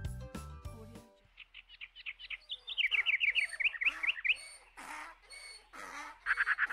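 Birds chirping: a quick run of high chirps, several a second, then scattered calls. A children's music jingle ends about a second in.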